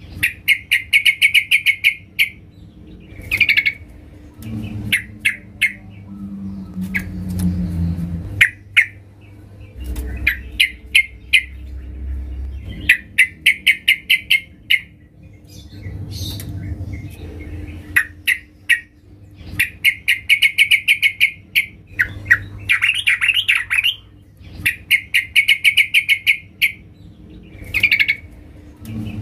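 Female yellow-vented bulbul (trucukan) calling for a male. Short bursts of rapid chattering notes come again and again, about every two seconds.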